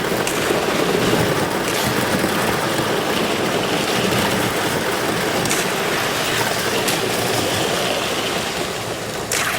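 Slush ice scraping and hissing along a canoe's hull as it is paddled through, with a few sharp ice clicks or knocks.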